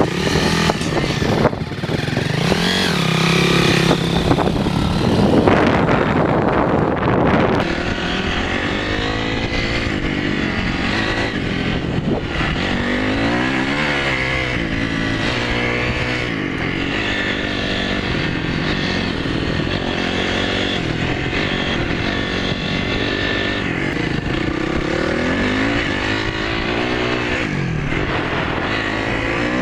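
Dirt bike engine revving on a motocross track, its pitch rising and falling again and again as the throttle opens and closes.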